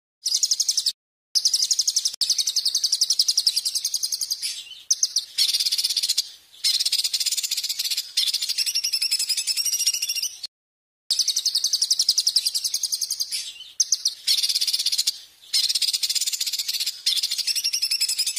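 Recorded songbird song played as 'masteran' tutoring for caged songbirds: fast, high trills and chattering phrases of one to four seconds, separated by short breaks. The sound cuts to dead silence twice, about a second in and about ten seconds in, where the recording is spliced.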